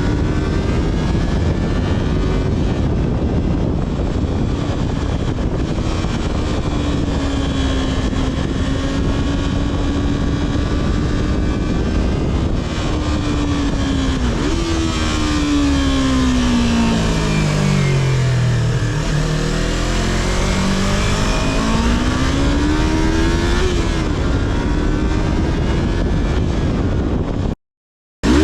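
Yamaha R3's parallel-twin engine through its stock exhaust, ridden at varying speed. The revs waver, fall steadily for several seconds as the bike slows, then climb again with a drop in pitch at a gear change. The sound cuts out briefly near the end.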